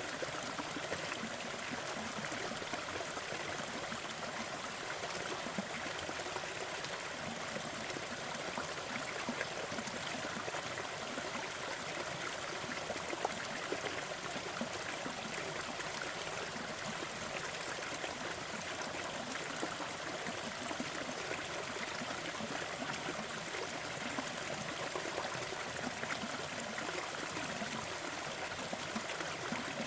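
Waterfall: a steady, even rush of falling water, mostly a bright hiss with little deep rumble.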